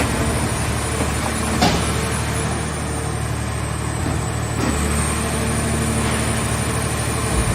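Engine of a scrap car baler running steadily, with a sharp metallic knock about one and a half seconds in and softer knocks later.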